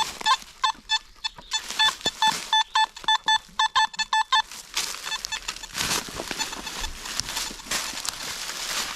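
Metal detector beeping: short tones in quick succession for the first four and a half seconds, then only a few scattered beeps, as the search coil passes over a signal. Rustling and crackling noise runs underneath.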